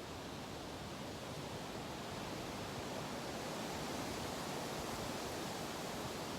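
Steady rushing background noise with no distinct events, swelling slightly in the first few seconds.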